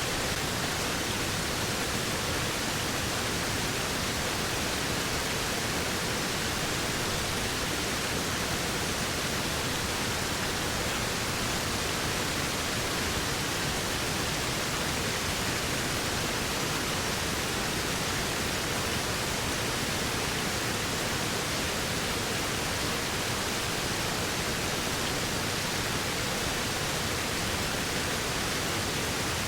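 Waterfall: a steady, unbroken rush of falling water that never changes.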